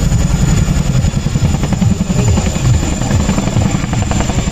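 Boeing CH-47 Chinook tandem-rotor helicopter flying, its rotors making a loud, deep, uneven rumble.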